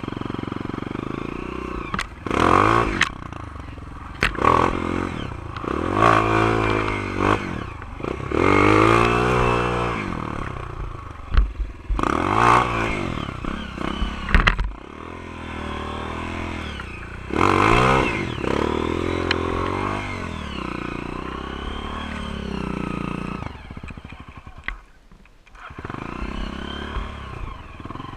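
Honda CRF230 dirt bike's single-cylinder four-stroke engine, revved up and eased off again and again in bursts as it rides, with a few sharp knocks and clatter in between.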